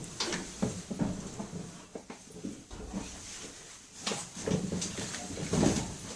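Footsteps and irregular knocks of someone climbing up through a hatch, with clothes rustling and breathing close to the microphone.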